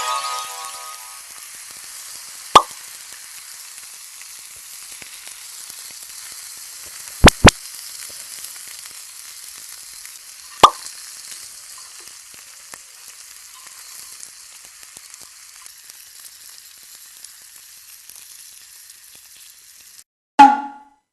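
Steady sizzling hiss over a campfire, broken by sharp pops: one about two and a half seconds in, a quick pair about seven seconds in, and one more about ten and a half seconds in.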